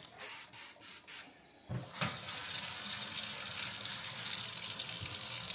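Kitchen faucet turned on and running steadily into the sink, starting about two seconds in after a few light knocks.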